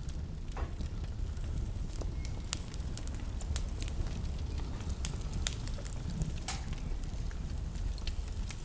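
Wood fire burning in a fireplace: a steady low rumble of the flames with irregular crackles and a few sharper pops.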